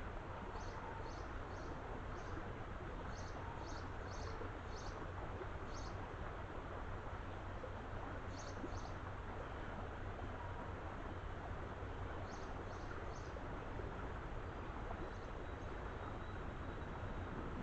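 Small birds chirping in short high notes, in clusters of two to six, over steady background noise.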